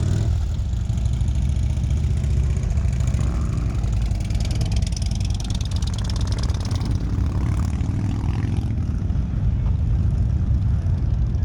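Motorcycle engine running as the bike rides off, a steady low rumble.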